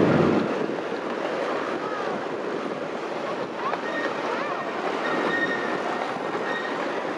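Miniature park train rolling along its track, heard from the rear passenger car as a steady rattling rumble, with a faint high squeal coming and going in the second half.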